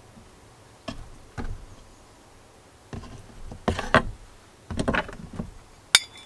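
A utensil knocking and scraping in a pot as noodles are mixed: a few separate clicks, two longer scraping stretches, and a sharp metallic clink near the end.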